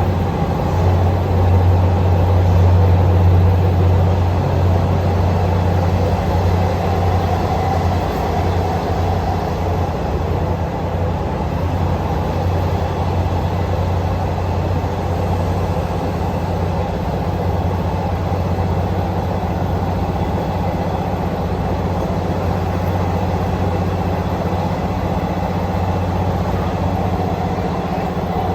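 Passenger train's steady low drone and rumble, a little louder for the first few seconds.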